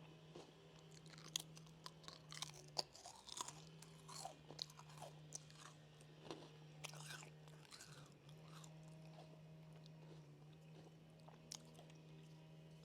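A person chewing a crunchy snack close to the microphone, with sharp crunches that come thick in the first half and thin out after about seven seconds. A steady low hum runs underneath, breaking off briefly twice.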